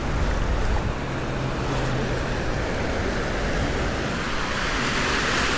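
Surf washing on a beach with wind rumbling on the microphone; a wave rush swells louder near the end.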